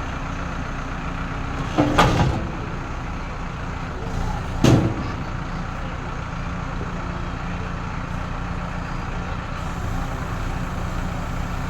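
A backhoe loader's diesel engine runs steadily. Two loud knocks come about two seconds in and again a little before five seconds.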